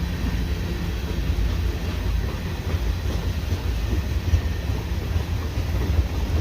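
Freight cars of a CN freight train rolling past: a steady rumble of steel wheels on rail.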